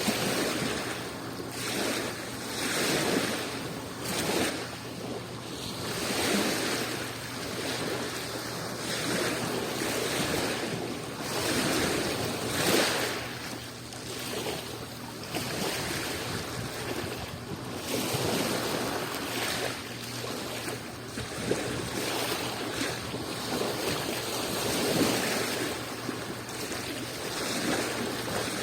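Small waves of the Adriatic Sea washing onto the shore, the surf swelling and falling back in irregular surges every second or few.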